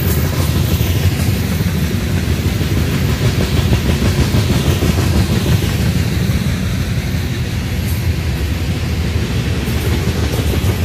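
A CSX freight train's cars rolling past, a steady, loud rumble of steel wheels on the rails.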